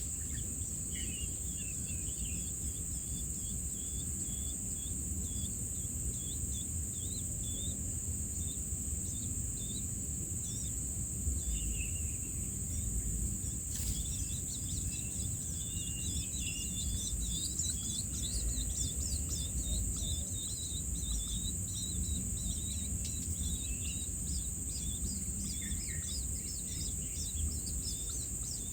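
Morning bird chorus of many short, quick chirps over a steady high insect buzz, with a low rumble underneath.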